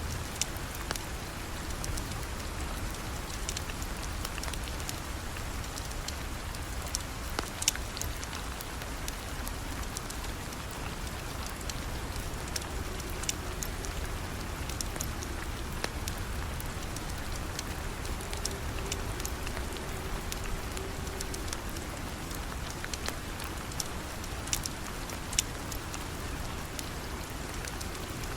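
Steady rain falling, a constant even hiss, with scattered sharp clicks and pops over it.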